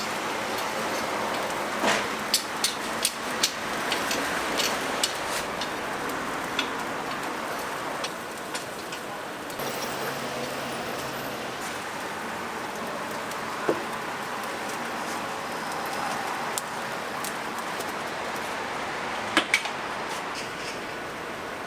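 Restaurant kitchen ambience: a steady noisy hiss with scattered sharp clicks and clinks, several in the first few seconds, one in the middle and two close together near the end.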